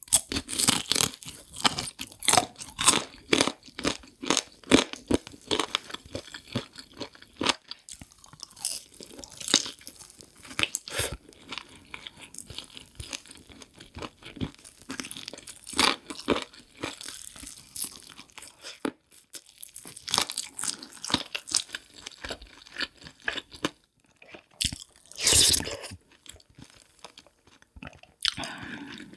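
Close-miked chewing of crunchy food, mukbang style: many sharp crunches and bites, thick in the first half and sparser later, with one longer, louder noise near the end.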